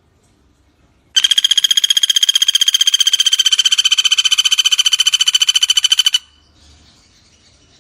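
Common flameback woodpecker (pelatuk bawang) giving one long rattling trill of about five seconds: fast, evenly spaced notes at a steady high pitch, starting about a second in and cutting off abruptly.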